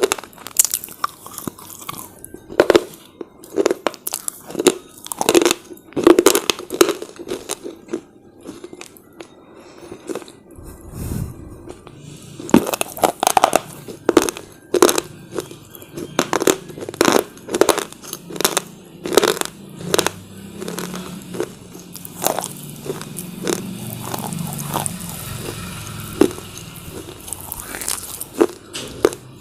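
Close-up crunching of hard slate bar chips, bitten and chewed in a long run of sharp, irregular crunches.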